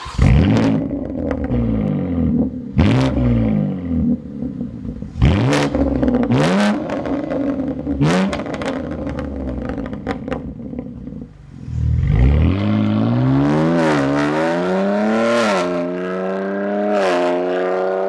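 BMW M3 G81's twin-turbo inline-six breathing through a REMUS cat-back exhaust: a loud flare, then several sharp rev blips that fall back to idle. From about twelve seconds in the engine note climbs in a long run with a few brief dips, rising steadily in pitch.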